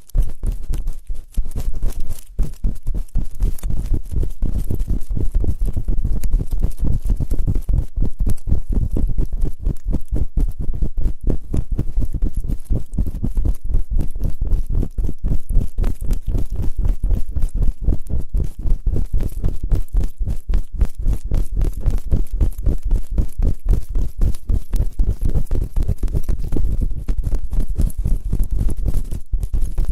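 Ear-cleaning ASMR: rapid scratching and rubbing right on the microphone, many short strokes a second with a heavy low rumble, steady throughout.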